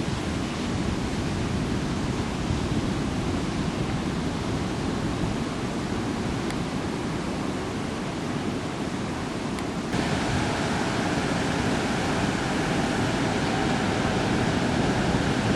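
Steady rushing noise of wind and ocean surf on a camcorder microphone, changing abruptly about ten seconds in as one clip cuts to another.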